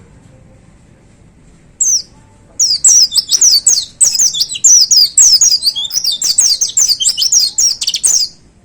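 White-eye (pleci) singing: a single short high note about two seconds in, then a fast, loud song of rapid descending high-pitched notes that stops just before the end.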